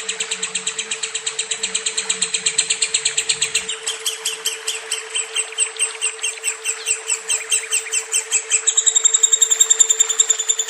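Lovebird singing a long, unbroken chatter of rapid repeated high notes; the note pattern changes twice along the way.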